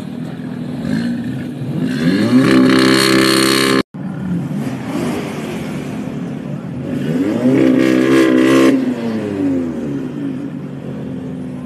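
Audi coupe's engine revved twice while standing: each time the pitch climbs sharply and then drops back toward idle. The first rev cuts off suddenly about four seconds in.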